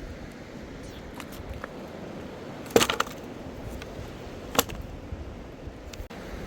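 A few sharp knocks: a quick cluster of them about three seconds in and a single loud one about a second and a half later, with fainter clicks before, over a steady rushing background.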